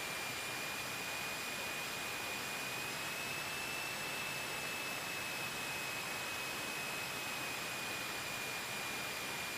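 Cockpit audio from a light aircraft's headset intercom: a steady hiss with a high whine that rises slightly in pitch about three seconds in and settles back down near the end.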